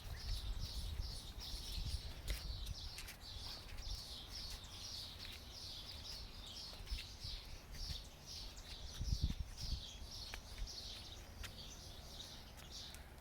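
Rapid, evenly repeated high chirps, about two to three a second, from a small wild animal, a bird or an insect, going on steadily. Under them is a low rumble of wind on the microphone, with a thump about nine seconds in.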